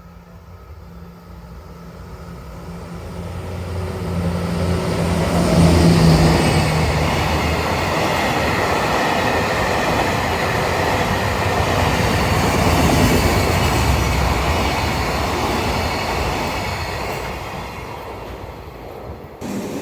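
A train running past on the tracks: the rumble builds over the first few seconds, holds loud and steady for about ten seconds, then fades, and cuts off suddenly near the end.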